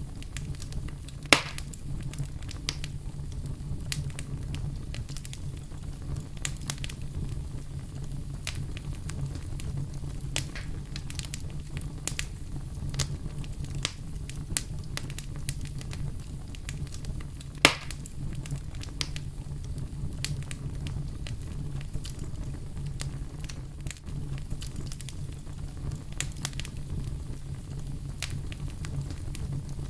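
Wood fire burning in a fireplace: a steady low rumble of the flames with frequent crackles and sharp pops, two pops louder than the rest, one about a second in and one a little past the middle.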